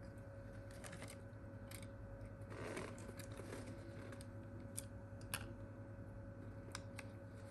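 Faint handling of small phone parts and tools on a workbench: a short rustle about two and a half seconds in, then a few sharp small clicks, over a steady electrical hum.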